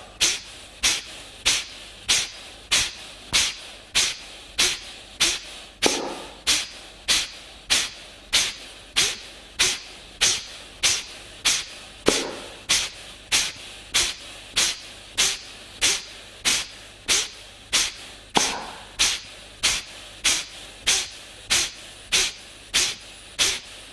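Kapalabhati breathing: a steady run of short, forceful exhalations puffed out through the nose, just under two a second, each followed by a quiet passive inhale.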